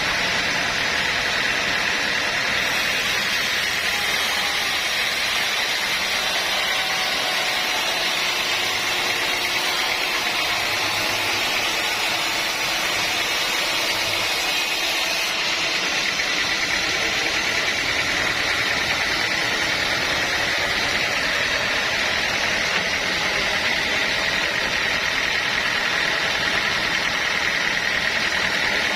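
Sawmill machinery running steadily, a continuous mechanical noise with a steady high whine.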